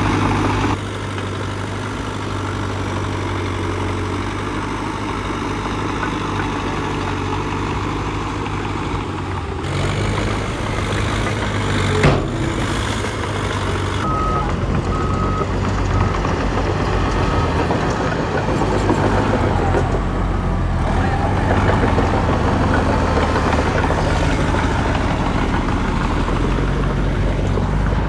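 Cat D3K2 XL bulldozer's diesel engine running steadily while pushing dirt. There is one sharp knock about twelve seconds in, and a run of short high beeps a little later.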